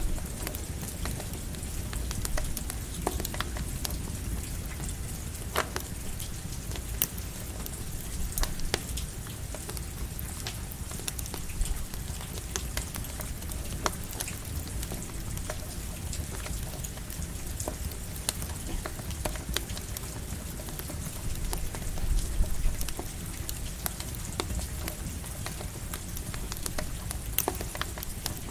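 Campfire crackling with scattered sharp pops over the steady hiss of light rain.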